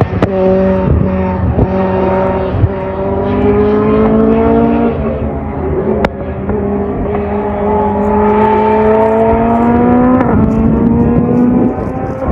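Competition car's engine accelerating hard at high revs, its pitch climbing steadily through the gears, with an upshift about five seconds in and another about ten seconds in.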